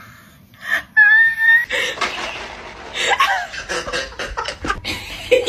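People laughing hard in pulsing, breathy bursts. A short, steady, high-pitched call comes just before the laughter, about a second in.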